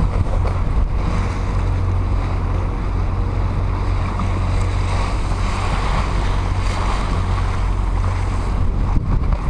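Motorboat under way: a steady low engine drone under wind rushing over the microphone and water noise from the hull.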